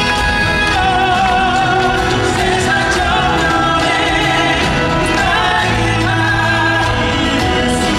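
Live singing with instrumental accompaniment: a vocal line of long held notes with vibrato over sustained chords.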